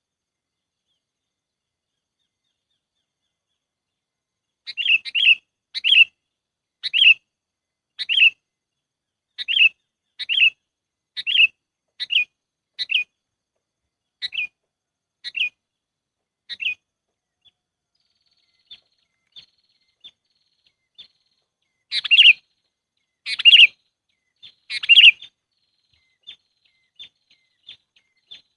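Sooty-headed bulbul (kutilang) calls from a bird-trapping lure recording. After a few seconds of silence comes a run of short chirpy calls about one a second that grow fainter. Faint high ticks follow, then three loud calls near the end with more faint ticks after them.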